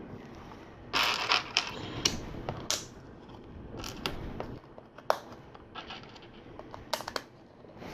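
LEGO plastic pieces clicking and rattling as they are handled and pressed together, with a burst of rummaging through loose parts about a second in and scattered sharp clicks after.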